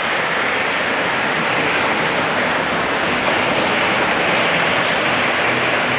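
Lionel O-gauge model train running on the club layout: a steady rolling noise of metal wheels on three-rail track.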